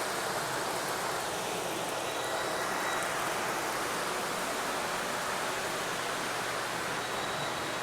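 Small garden-railway fountain splashing steadily, running water making an even rushing hiss.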